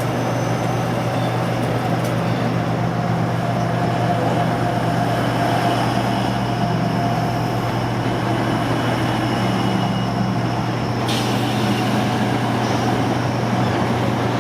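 Steady low hum of diesel train engines, a Grand Central class 180 diesel multiple unit pulling out. A short hiss comes about eleven seconds in.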